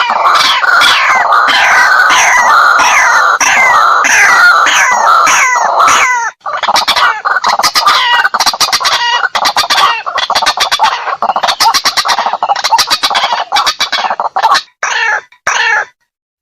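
White-breasted waterhen calls played as a lure recording: a loud run of repeated falling notes, about three a second. About six seconds in it breaks into a faster stuttering series, which thins out and stops near the end.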